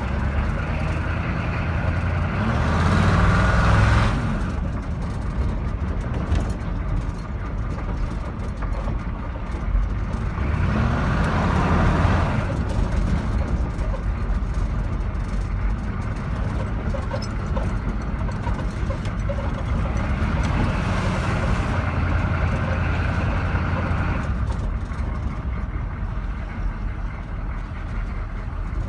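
Chevrolet K10 pickup's 6.2 V8 running under way, a steady drone that swells louder three times as it is given more throttle: briefly about two seconds in, again around ten seconds in, and for a longer stretch about twenty seconds in.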